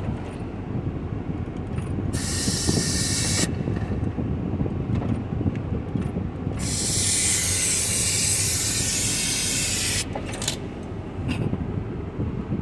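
Aerosol spray can hissing in two bursts, a shorter one about two seconds in and a longer one of about three and a half seconds a few seconds later, sprayed at a nest of stinging insects, over a steady low rumble.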